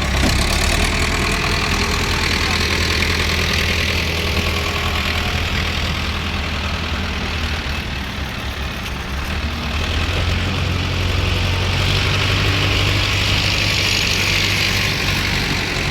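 Diesel engines of an excavator and tractors running steadily: a low engine drone with a higher hiss above it, swelling a little about two-thirds of the way through.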